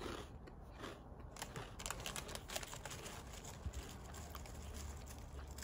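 Faint crunching of a Pom-Bär potato snack being chewed: many small, irregular crackles. The snack is still crisp.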